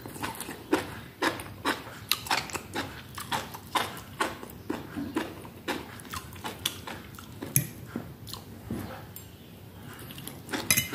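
A person chewing and biting through steamed mushrooms with the mouth close to the microphone: irregular quick mouth clicks and smacks, a few a second, easing off for a moment near the end.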